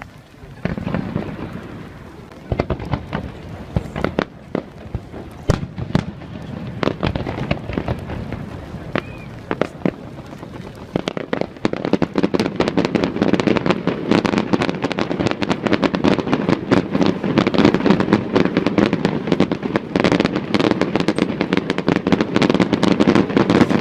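Large fireworks display: shells bursting in sharp bangs and crackles, with a rumbling wash between them. The bursts grow denser and louder about halfway in, becoming a near-continuous barrage.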